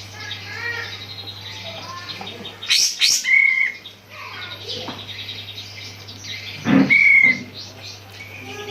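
A kapas tembak songbird singing loud chirping phrases, with two especially loud sharp calls about three seconds in and again near seven seconds, over a steady low hum.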